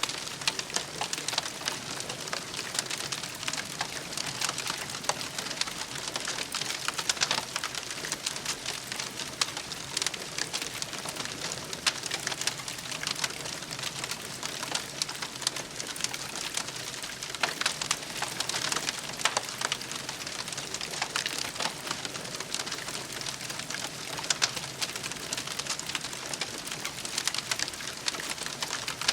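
Wood campfire burning and crackling steadily, with many short, sharp snaps scattered throughout.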